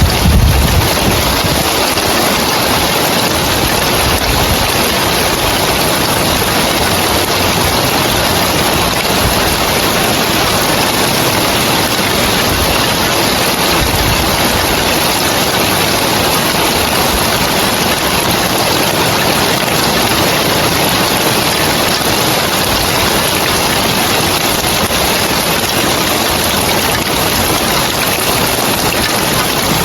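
Rain falling steadily on roof tiles, a dense even hiss, with a brief low rumble in the first second.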